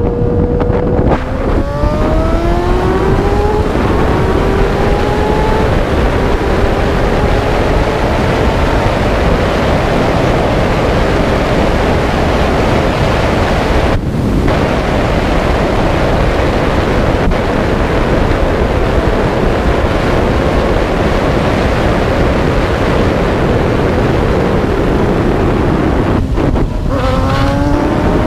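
Motorcycle engine accelerating hard, revs rising and stepping through upshifts, under a loud, steady rush of wind on the microphone. The engine fades into the wind rush, then near the end revs climb through several quick gear changes again.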